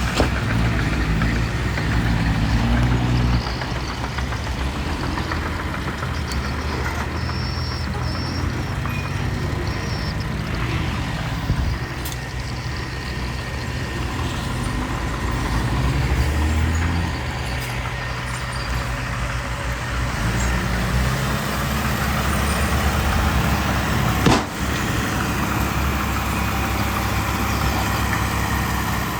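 Diesel engines of a dump truck and bulldozer running and working, their pitch and load rising and falling, with a sharp knock late on.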